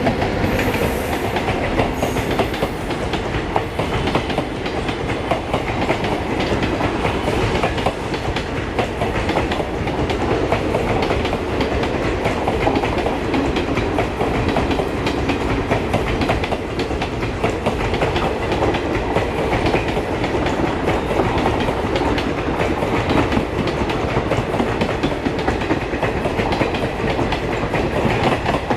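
A WAP-7-hauled passenger train running on the track, its wheels clattering over rail joints in a dense, continuous rattle.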